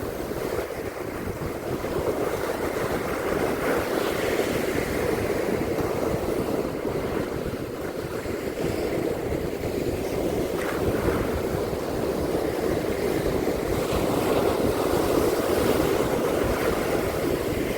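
Ocean surf washing steadily onto a beach, its loudness gently swelling and easing, with wind rumbling on the microphone.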